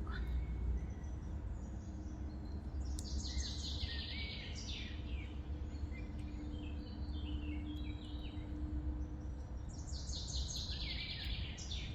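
A songbird singing several quick phrases of rapid descending notes, a few seconds apart, with a loud burst near the end, over a steady low outdoor rumble.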